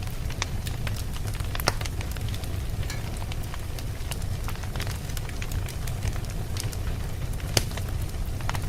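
Campfire of burning wood crackling over a steady low rumble of the flames, with frequent small snaps and two sharper pops, one about two seconds in and one near the end.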